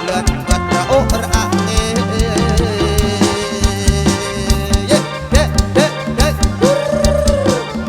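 Kantrum folk music played live through a PA system: a steady drum beat under a gliding melody, with a long wavering held note near the end.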